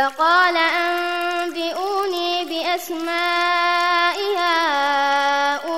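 A single voice chanting Quran recitation (murottal), holding long drawn-out vowels with ornamented rises and falls in pitch, broken by short pauses between phrases.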